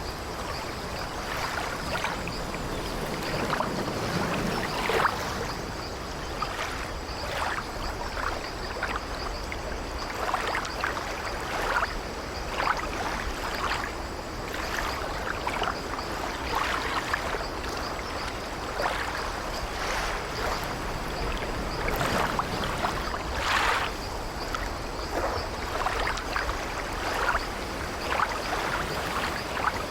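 Sea waves washing against an old wooden ship, a steady wash of water with frequent short, irregular creaks of the ship's timbers.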